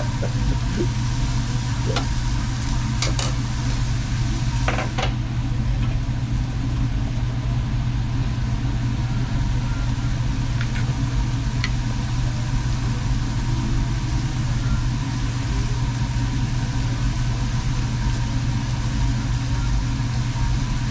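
Steady low mechanical hum with an even hiss over it, broken by a few light clicks and knocks, the first three in the opening five seconds and a couple more about halfway.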